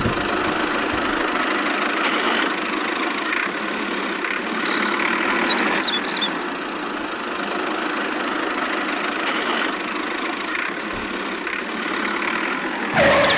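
A motor running steadily at an even speed, with a few faint bird chirps above it.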